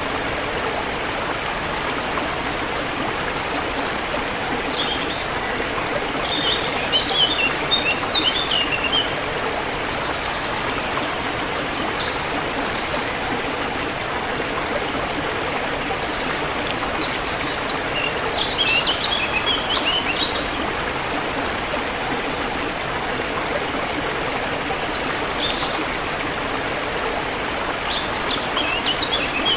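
Forest river water flowing steadily, with bird song phrases of high chirps and twitters breaking in every several seconds.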